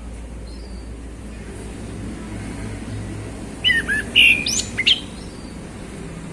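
Male orange-headed thrush singing one short, loud phrase of quick whistled notes that slide up and down, about three and a half seconds in, over a low steady hum.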